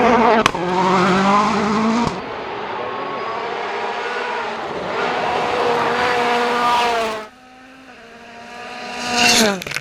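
Rally cars at full throttle, engines revving up and down through the gears, in several short clips that cut abruptly about 2 and 7 seconds in. Near the end a car comes past loudly, its engine note rising and then falling away.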